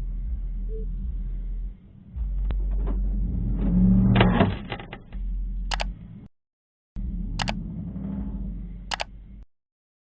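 Dashcam audio of a car on the road: a steady low hum of engine and road noise. About four seconds in there is a brief, louder burst with clicks. The sound cuts out abruptly twice, with sharp clicks at the edits.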